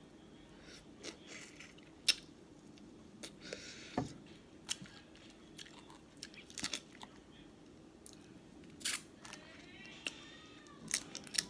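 Close-miked eating of a seafood boil: irregular wet clicks and crackles of chewing and of shells being cracked and picked, with a short hiss about three and a half seconds in.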